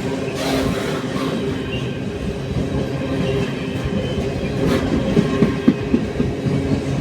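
A train running through the station with a steady engine note and wheels clattering over the rails. A run of sharper clicks comes about five to six seconds in.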